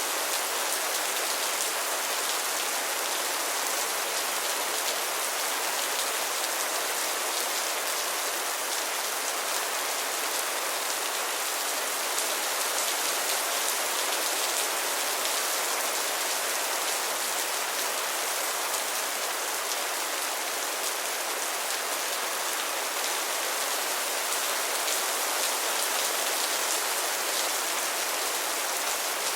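Heavy rain falling steadily, a dense hiss of drops with fine patter throughout and no change in strength.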